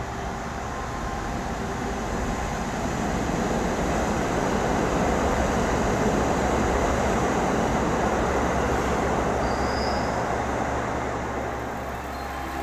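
A train running past on the station tracks, its wheel and rail noise building over a few seconds, holding, then easing off near the end.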